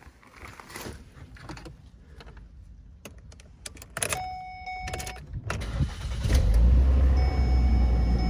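Keys jangle, an electronic chime sounds for about a second, and then, about six seconds in, a 2008 Mercury Mariner's 2.3-litre four-cylinder engine starts and runs with a steady low hum, freshly refilled after an oil change.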